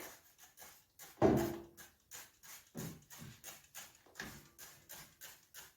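Trigger spray bottle squirting cleaner in a quick series of short sprays, with a few louder knocks, the loudest about a second in.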